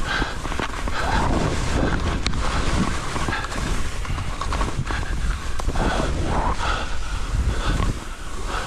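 Wind buffeting the microphone, with repeated swishing surges of skis carving through deep powder snow.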